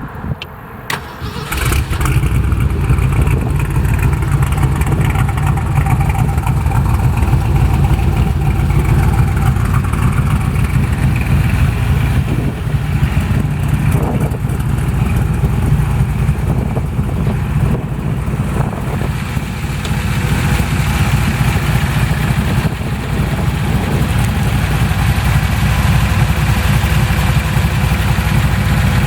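ERA 472's engine cranked on the starter and catching about a second and a half in, then running steadily with a loud low rumble and small changes in speed.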